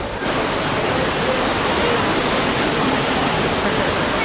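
Steady, loud rush of falling water, like a waterfall or cascading water feature, starting abruptly at the beginning, with faint voices underneath.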